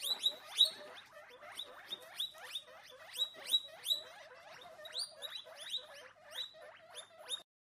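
Guinea pigs squeaking: a rapid series of short, high-pitched squeaks, about three a second.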